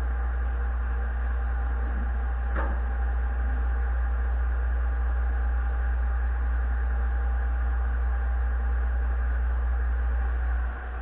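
Concrete pump truck's machinery running steadily: a deep rumble with a steady hum. There is a single click about two and a half seconds in, and the sound drops off shortly before the end.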